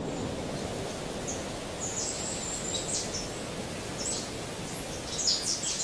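Birds chirping over a steady outdoor background hiss: short high chirps a few times, then a quick flurry of them near the end.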